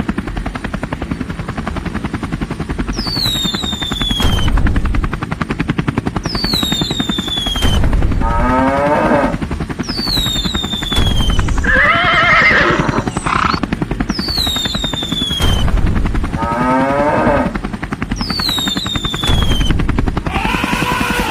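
A looping cartoon sound-effects track with a fast, steady rattling pulse that does not stop. Over it, a high falling whistle comes about every three seconds, and cow-like animal calls rise and fall four times.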